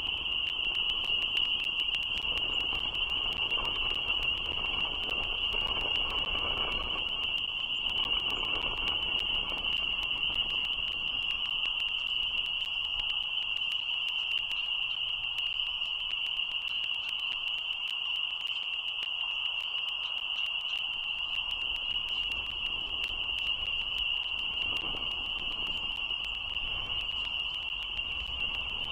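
A steady, unbroken high-pitched chorus of calling frogs, heard as one continuous shrill tone. Under it a low rumble swells during the first ten seconds and again near the end.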